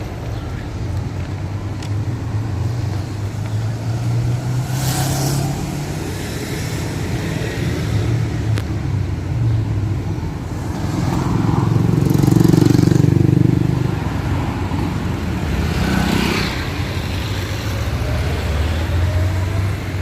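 Road traffic: a steady low engine rumble with vehicles passing, the loudest pass about twelve seconds in.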